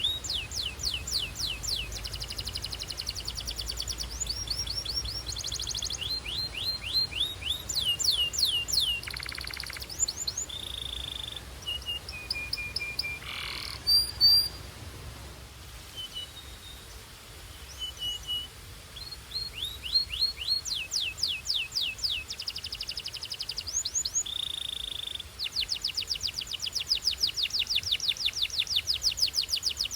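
Belgian canary singing: fast trills of repeated high sweeping notes, broken by short held whistles. The song eases off in the middle and ends in a long, fast trill.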